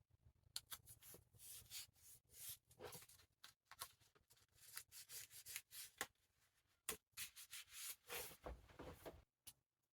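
Faint rubbing and rustling of hands working tape and paper on a book's cover and spine, in an irregular string of short scratchy strokes.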